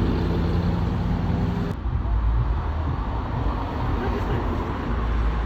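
Car engine idling, a steady low rumble with a held hum, which changes abruptly a little under two seconds in and carries on as a lower rumble.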